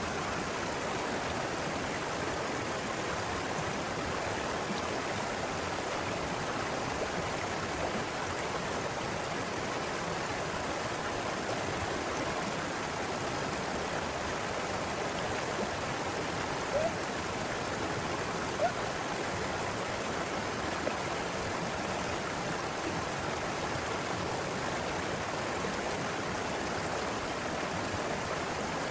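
River water flowing, a steady rushing sound, with a couple of faint clicks about two-thirds of the way in.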